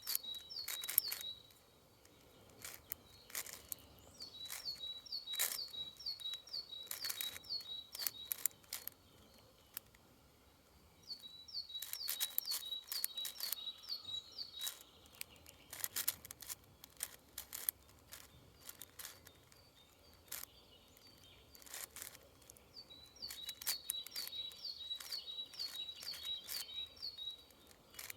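Clacking clicks of a 6x6 puzzle cube's layers being turned, in irregular flurries, over a faint outdoor background. A songbird sings three times, each phrase a quick series of repeated short high notes lasting a few seconds.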